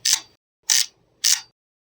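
Camera shutter firing three times in quick succession, each a short sharp mechanical click-whir about two thirds of a second apart.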